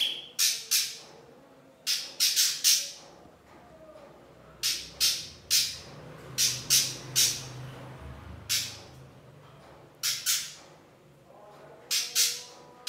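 Harsh, noisy chip calls in quick clusters of one to five, repeated every second or two, played as a tutor recording for teaching songbirds.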